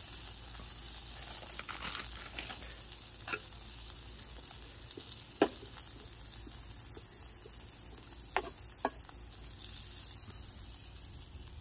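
Green garlic and green onions sizzling in hot oil in a wok over a wood fire, a steady hiss, with four sharp clicks spread through it, the loudest about halfway through.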